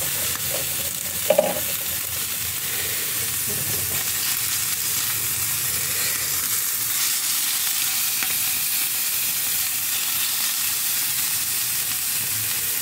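Chopped chicken breast frying in olive oil on a hot flat-top griddle, a steady sizzle, while a plastic spatula stirs and pushes the pieces. Two brief sharp sounds stand out about a second in.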